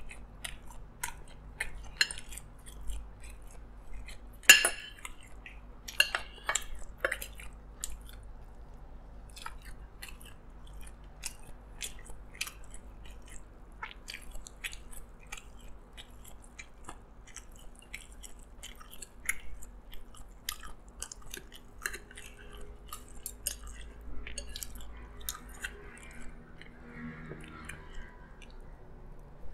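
Close-miked chewing of fried chicken and rice, with many short clicks and scrapes of a spoon and fork on plates. The sharpest click comes about four and a half seconds in.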